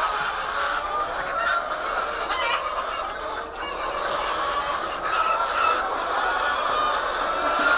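A large flock of egg-laying hens clucking and calling all at once, a dense, continuous chatter of many overlapping voices.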